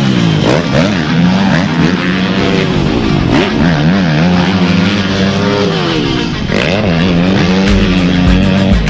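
Motocross dirt bike engine being ridden hard, its pitch repeatedly rising and falling with throttle and gear changes.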